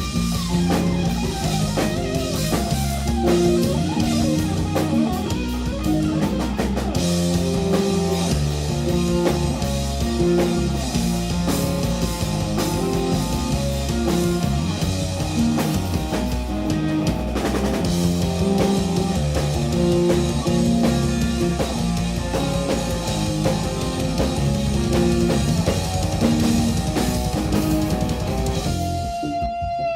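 Live instrumental jazz-rock trio playing: electric guitar lines over bass guitar and a drum kit beat. Near the end the drums and bass drop out, leaving a single held guitar note ringing.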